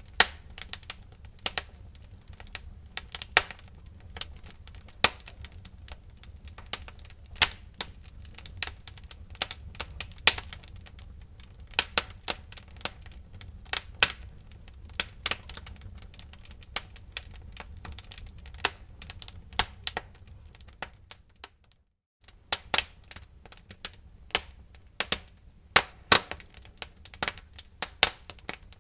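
Wood fire crackling: irregular sharp snaps and pops over a low steady rumble. The sound drops out for a split second about three-quarters of the way through.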